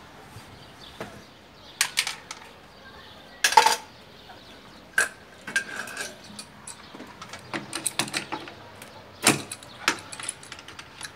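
Irregular clicks, taps and metallic clatter of tools and fittings being handled while a refrigerant manifold gauge set is hooked up to an air conditioner, with the loudest knock about three and a half seconds in.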